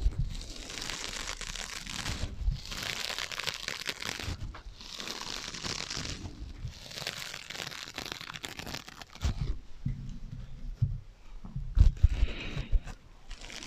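Scratching on sponges close to the microphone, with an echo effect added: rough, crinkly strokes in passages of one to two seconds with short gaps between them, and a few low knocks in the second half.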